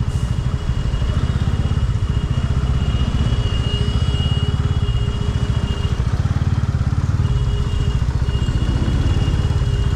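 Motorcycle engine running steadily under way, with a fast even firing beat. A thin high whine sits above it, breaking off around the middle and returning.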